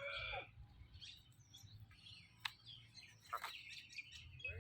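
A rooster's crow ends in the first half second, followed by scattered short bird chirps and a couple of sharp clicks.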